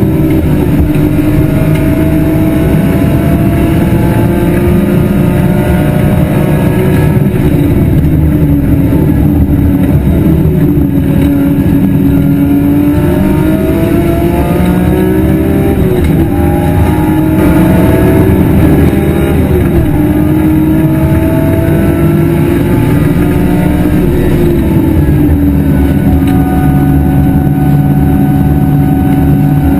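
BMW E46 M3 race car's inline-six engine running hard on track, heard from on board. Its pitch climbs steadily under acceleration and drops several times as the driver shifts or lifts, then climbs again.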